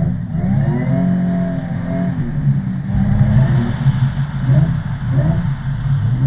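Drift ute's engine revving hard: the revs climb in the first second, hold high, drop about three seconds in, then rise and fall in a series of quick blips.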